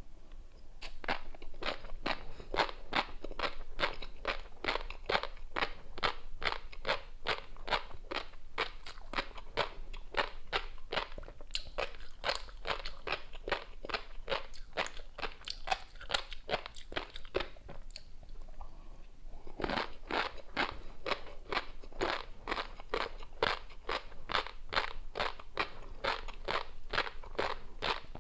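Close-miked chewing of flying fish roe (tobiko) and a crunchy seafood topping: a fast, even run of crisp crunching pops, several a second, with a short break about two-thirds of the way through.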